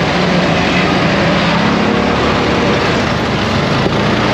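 ATV engine running steadily during a trail ride, a constant drone with no change in speed.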